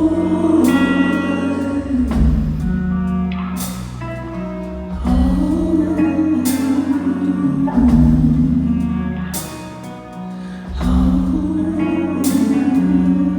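Rock band playing a slow instrumental passage: electric guitar over bass and drums, with cymbal crashes every few seconds.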